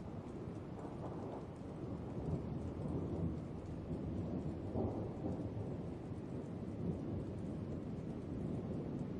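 Thunder rumbling over steady rain, swelling about two seconds in and peaking twice before easing off.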